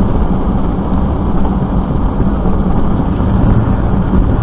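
Motor vehicle engine running steadily with a low hum and a dense rumble under it; the hum drops lower about three seconds in.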